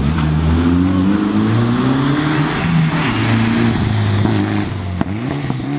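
Rally car engine at full throttle, its pitch climbing and then dropping at each of several upshifts as the car accelerates, with a single sharp crack about five seconds in. It fades a little near the end.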